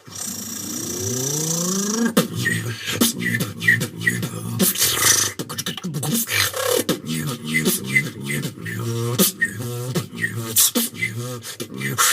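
Vocal beatboxing freestyle. It opens with a rising hummed glide over a hiss for about two seconds, then settles into a steady beat of mouth clicks and snare hits over a hummed bass line.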